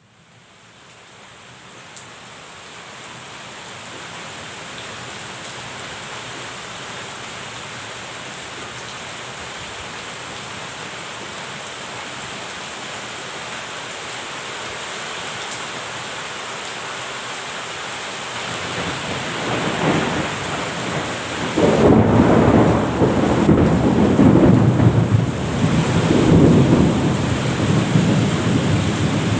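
Steady rain falling, fading in over the first few seconds. About two-thirds of the way in a long roll of thunder builds up and stays loud, rumbling in waves, louder than the rain.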